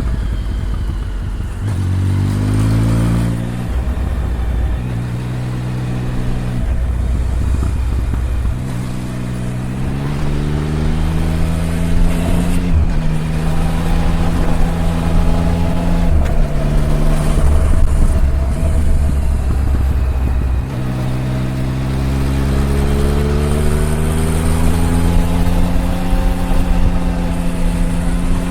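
Triumph Tiger 1050's inline three-cylinder engine pulling through the gears on the road. The pitch climbs in each gear and drops back at each of several upshifts, then holds fairly steady near the end.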